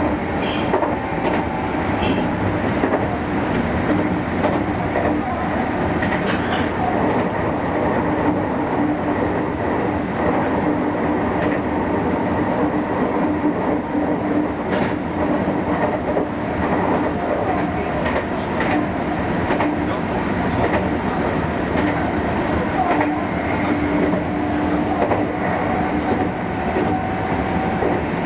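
Meitetsu limited express electric train running at speed, heard from inside the train behind the cab. Steady running noise and hum, with wheels clicking over rail joints now and then.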